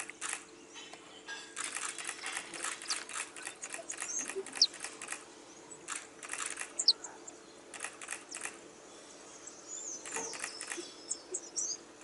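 Birds calling: runs of rapid, dry ticking in several bouts, with a few short, high-pitched chirps between them.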